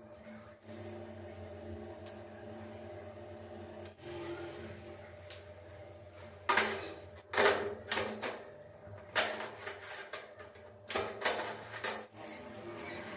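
Tile work: a series of short, sharp bursts of tapping and scraping on ceramic zellige tile pieces, bunched in the second half, over a steady low hum.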